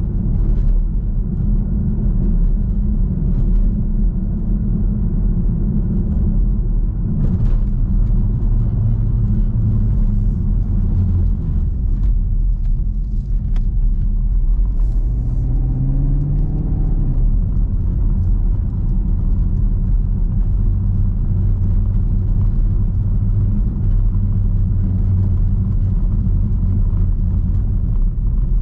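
2021 Chevrolet Camaro 2SS's 6.2-litre V8 running as the car is driven, a steady low rumble. About halfway through, the engine note rises briefly.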